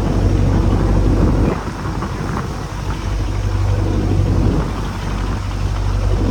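Small boat's engine running with a steady low hum, under wind buffeting the microphone and rushing water. The hum drops away briefly about a second and a half in and again near the middle.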